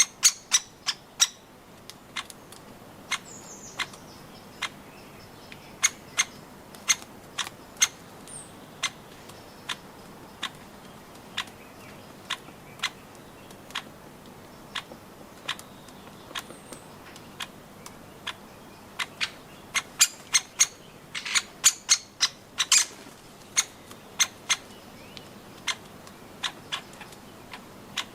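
Birds pecking at nuts: irregular sharp taps, about one or two a second, with a quick flurry of them about two-thirds of the way through, and a few short, faint high chirps.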